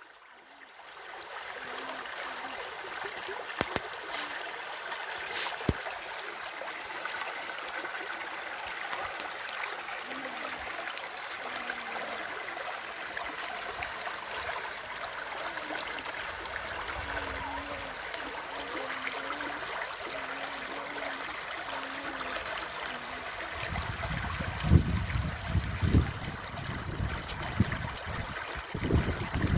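Steady rush and trickle of a flowing stream. From about 24 s in, low rumbling bumps come over it.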